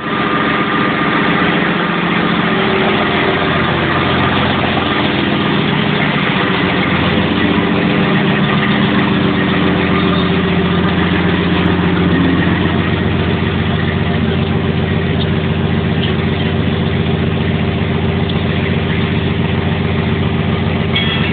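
Truck engine idling. Its note rises and falls a little over the first dozen seconds, then holds steady.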